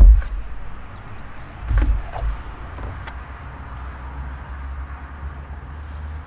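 Engine oil being poured into the filler of a Porsche Cayenne Turbo: a steady low rumble with a faint hiss, after a heavy thump at the start and another about two seconds in, with a few lighter knocks.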